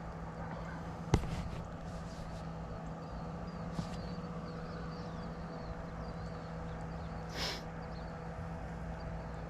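Steady outdoor background with a low hum and faint high chirps, broken by a sharp click about a second in and a brief swish near the end.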